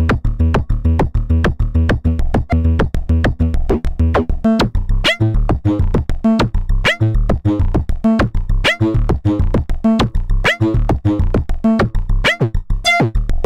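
Eurorack modular synthesizer sequence: a Make Noise DPO oscillator stepped by a René sequencer, each note shaped by an Ardcore envelope through a VCA, with delay added. It is a fast run of short pitched notes over a low pulse, and from about five seconds in a note sweeps in pitch roughly every two seconds.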